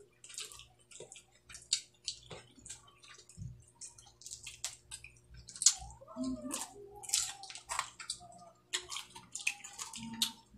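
Close-up eating sounds: wet chewing, lip smacks and mouth clicks from people eating dried fish and rice with their hands, in many short irregular ticks.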